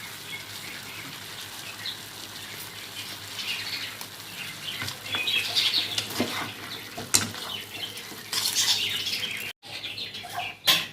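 Chicken masala cooking in a kadai: stirring with a spoon over a soft sizzle, with a few sharp spoon clicks against the pan.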